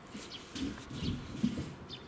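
Outdoor ambience with a few short bird chirps and several low, muffled knocks.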